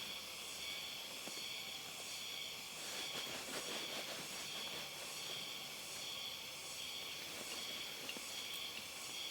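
Steady, high-pitched insect chorus with a faint pulse, with light rustling and small clicks from about three seconds in.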